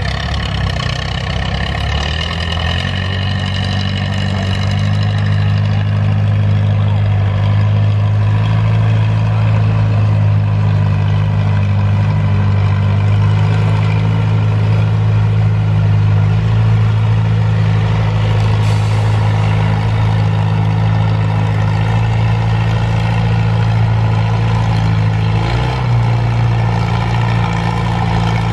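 Farmall Super H tractor's engine working under heavy load in a tractor pull, a steady low drone that climbs in pitch and loudness over the first few seconds and then holds, wavering briefly near the end.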